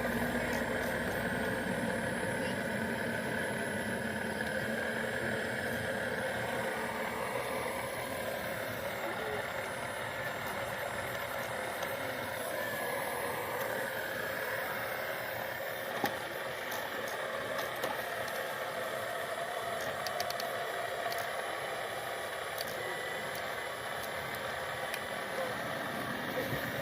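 Remote-control construction vehicles running, their small motors whining steadily and shifting slowly up and down in pitch, with a few faint clicks.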